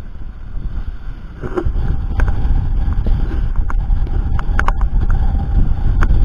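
Wind buffeting the microphone aboard a sailing yacht under way, a loud, gusting low rumble, with several short sharp knocks scattered through it.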